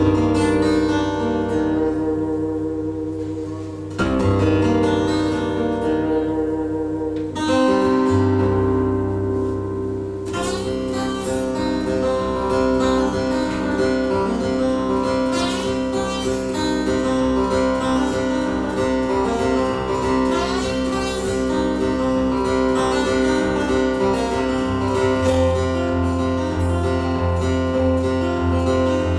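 Acoustic guitar played live as an instrumental. Ringing chords are struck about every four seconds at first, then from about ten seconds in comes a busier picked passage over a sustained low bass note.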